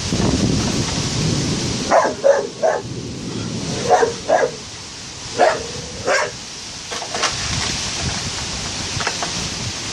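Dog barking in short barks, about nine in all, some in quick runs of two or three, over a steady noise of wind and rain.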